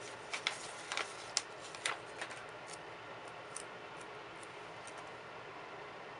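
Light ticks and taps of paper and stickers being handled on a planner, about half a dozen in the first two and a half seconds, a few fainter ones after, then only faint hiss.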